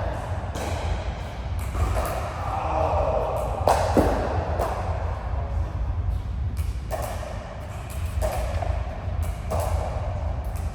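Sharp hits about every one to one and a half seconds, as in a racket-sport rally, over a steady low rumble.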